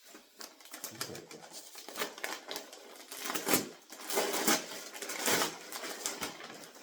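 Wrapping paper rustling and tearing in irregular crackly bursts as a gift is unwrapped.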